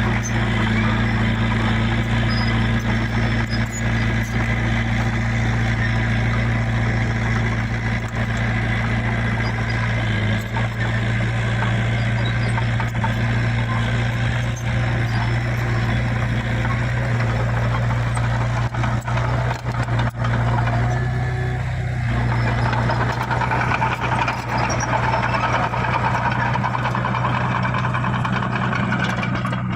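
Heavy machine's diesel engine running steadily at a constant speed, with a continuous low drone.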